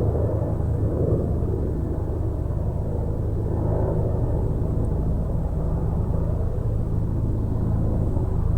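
Steady low rumble of a vehicle driving along, with an even engine hum underneath.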